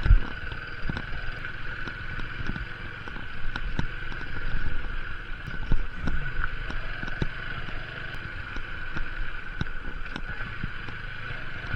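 TVS Apache RTR 160 4V motorcycle on the move, its engine running steadily under wind noise on the microphone, with frequent short knocks and jolts.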